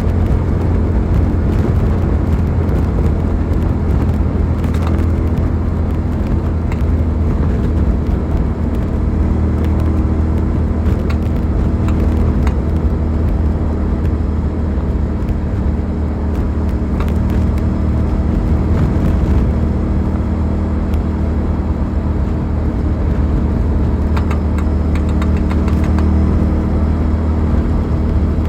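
Suzuki SV650's 90-degree V-twin engine running at a fairly steady speed while the motorcycle is ridden, heard from on board, with no big revs or gear changes.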